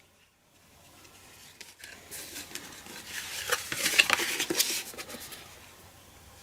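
Cardstock and craft supplies being handled while a card panel is glued down: scratchy rustling with small clicks and taps, loudest around the middle.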